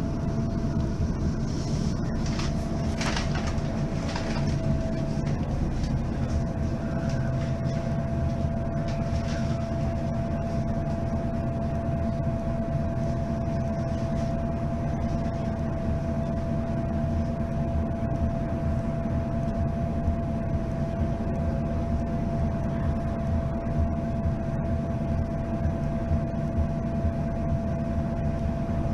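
Mercedes-Benz Citaro facelift city bus's diesel engine running at a steady, unchanging pitch, with a thin steady whine above it. There are a few clicks two or three seconds in.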